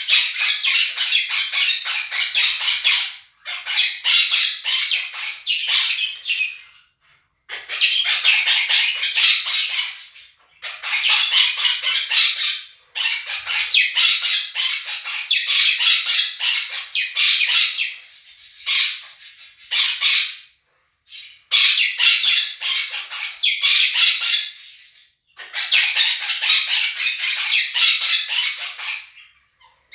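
Monk parakeets (Quaker parrots) screeching loudly over the chatter of a budgerigar flock, in dense bursts a few seconds long with brief pauses between.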